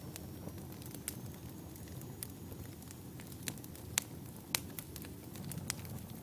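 Wood fire in a fireplace burning with a steady low rumble of flames and scattered sharp crackles and pops, two louder pops about four and four and a half seconds in.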